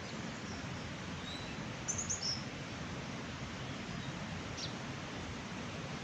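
Birds chirping briefly, a quick cluster of short high calls about two seconds in and a single one a little after the middle, over a steady rushing background noise.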